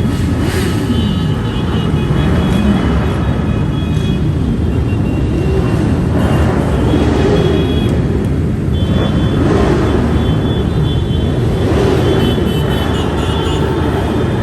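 A crowd of motorcycles riding past in a parade, many engines running together with their pitch rising and falling as riders rev. Steady high tones come and go over the din.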